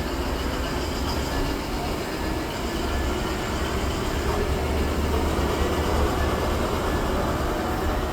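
Amtrak passenger train's cars rolling past, with a steady noise of wheels on rail.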